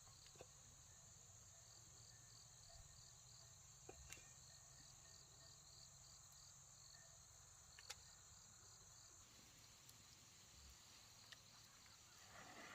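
Faint insect chorus: a steady high buzz with a regular chirp about twice a second that stops about nine seconds in, and a few soft clicks.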